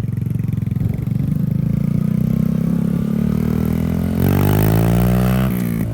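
Motorcycle engine running with its speed slowly creeping up. About four seconds in it is revved hard, rising in pitch and getting louder, then drops back just before another rev starts at the end.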